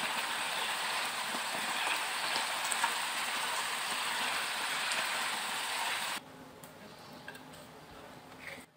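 Mixed vegetables and shrimp sizzling in a hot pan as they are stir-fried and tossed: a steady hiss with faint spattering ticks that cuts off suddenly about six seconds in, leaving quiet room sound with a few soft clicks.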